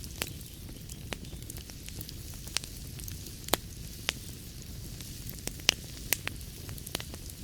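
Wood fire burning in a fireplace: a steady low rush of flame with sharp, irregular crackles and pops, the loudest about three and a half seconds in and again near six seconds.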